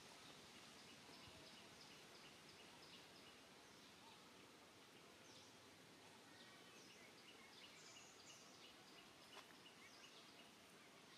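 Near silence: faint outdoor ambience with small birds chirping in the background, short high notes repeated about three times a second.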